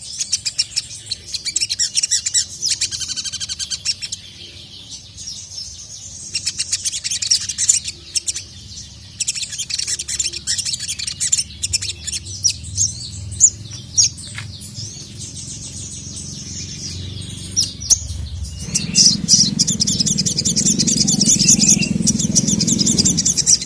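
Sogon (sogok ontong) sunbird singing a rapid, high-pitched chattering song in repeated bursts with short pauses. A low steady hum comes up beneath it about three-quarters of the way through.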